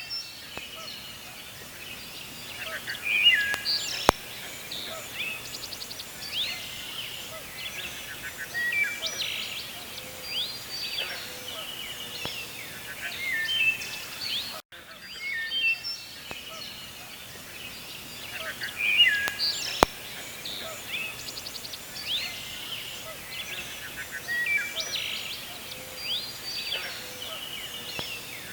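Several wild birds chirping and whistling over a steady outdoor hiss. The same stretch of about 15 s of birdsong plays twice, a loop.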